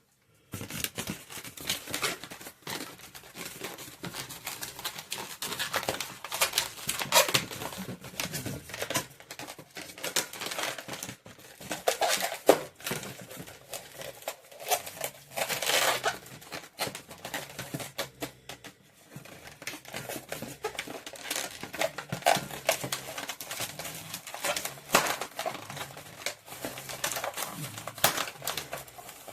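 Latex twisting balloons being handled and twisted, rubbing and squeaking with a steady crinkly rustle and many small sharp squeaks, and a louder snap about twelve seconds in.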